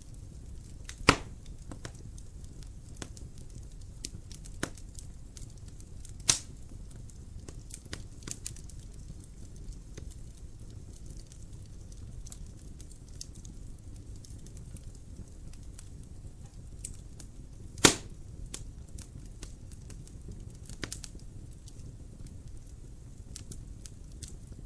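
Wood fire crackling in a fireplace: a low steady rumble of burning with scattered sharp pops. The loudest pops come about a second in, about six seconds in, and, loudest of all, near eighteen seconds.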